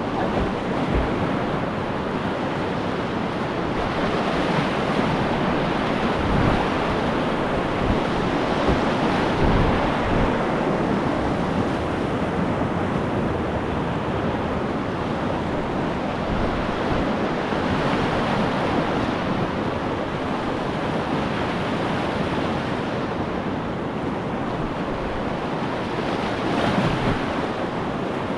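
Whitewater rapids rushing steadily around a kayak, with a few brief low thumps of wind buffeting the microphone.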